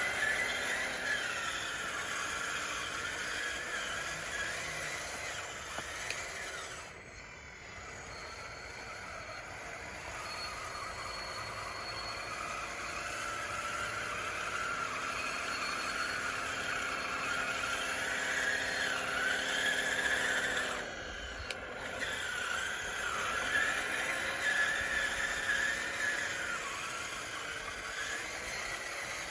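Small electric drive motors of a DXR2 RC bulldozer whining steadily while it pushes dirt, the pitch wavering with load and cutting out briefly twice.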